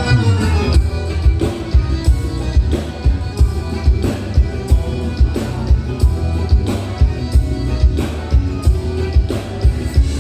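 Live gaúcho band playing a milonga, with a steady low drum beat of about three strokes every two seconds under the instruments.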